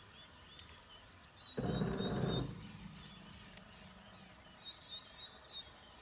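A bird repeating short, high chirps in small groups. About a second and a half in comes a loud, rough burst of noise lasting under a second, which fades into a low hum.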